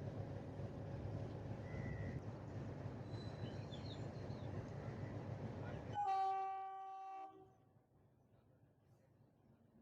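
Metre-gauge train running along the track with a steady rumble, then the locomotive horn sounds one blast about six seconds in, lasting about a second and a half. Right after it the running noise cuts off abruptly, leaving quiet with faint bird calls.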